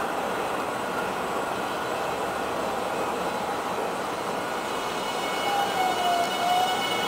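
JR Central 383 series limited-express train rolling slowly through a station, a steady noise of wheels on rails. About five and a half seconds in a thin whine slides down in pitch, and faint high squealing tones come in near the end.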